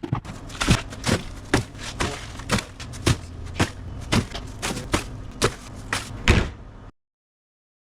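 A steady series of thuds and knocks, about two a second, over a low background rumble, cutting off abruptly near the end.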